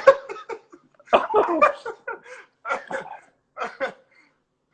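Hearty laughter in a string of short voiced bursts, with a pause of about half a second near the middle.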